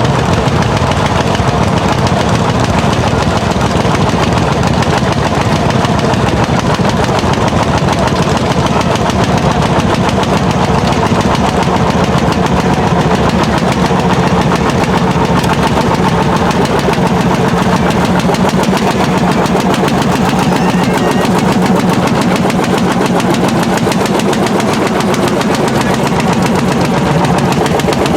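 Landini L55 single-cylinder hot-bulb engine working under load while ploughing, its exhaust a rapid, steady run of sharp pops.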